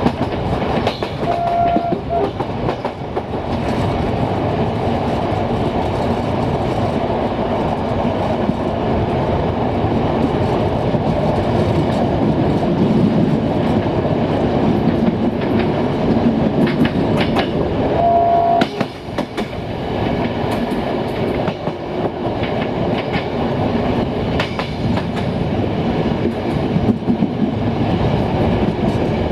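Passenger train running along the track, its wheels clacking over the rail joints. Two short steady tones sound briefly over the running noise, one about a second and a half in and one about eighteen seconds in.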